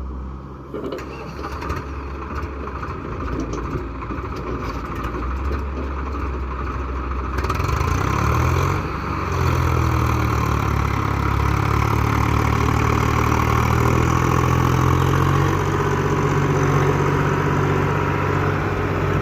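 Swaraj tractor diesel engine running, getting louder about seven seconds in and then holding a steady, heavier note under load.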